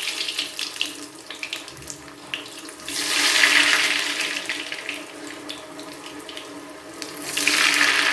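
Potato-stuffed bread rolls going one at a time into hot oil in a small pan and deep-frying. Each roll set in brings a loud surge of sizzling, about three seconds in and again near the end, with steady crackling and popping between.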